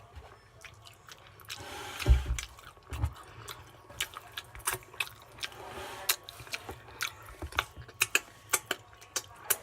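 Close-up mouth sounds of someone chewing lasagna: wet lip smacks and clicks, about two a second, starting about a second and a half in. There are a couple of low thumps about two and three seconds in.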